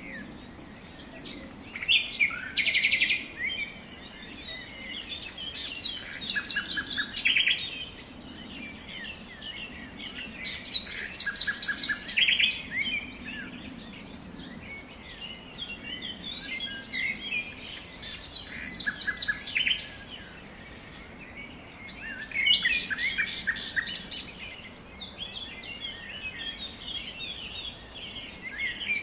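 Songbirds chirping and singing: a continuous chatter of short chirps, broken every few seconds by a loud, rapid trill.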